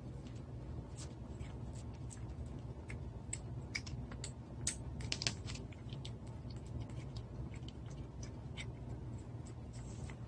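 Cat licking a churu purée treat: irregular small wet tongue clicks and smacks, with a louder, quicker run of them between about three and a half and five and a half seconds in.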